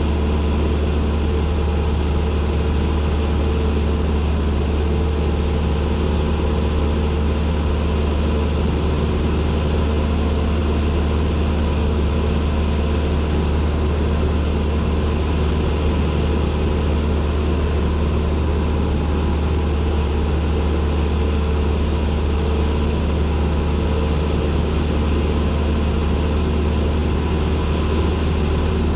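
Cessna 172N's piston engine and propeller running at a steady drone, heard from inside the cockpit, with no change in pitch or power.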